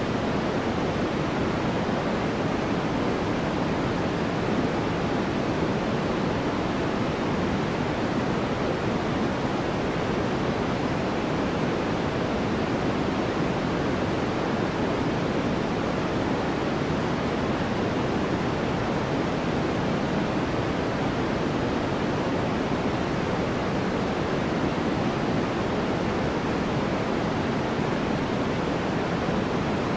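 Steady white noise for sleep: an even, unbroken rushing hiss with no change or events, weighted toward the lower, softer end rather than sharp and bright.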